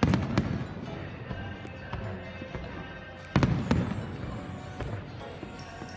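Two fireworks shells bursting about three seconds apart, each a sharp bang followed by a rumbling decay, with scattered smaller pops between.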